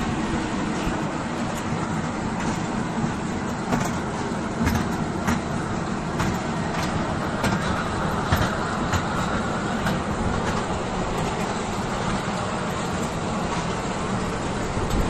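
Train running with a steady rumble, with scattered sharp clicks and knocks through the first ten seconds or so.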